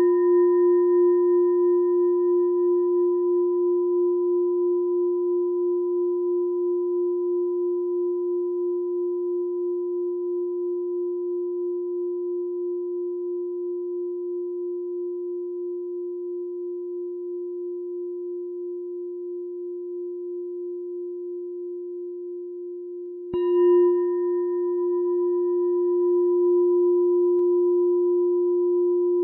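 A meditation bell rings on with a long, pure, wavering hum that slowly fades. It is struck again about 23 seconds in, and the tone swells back up.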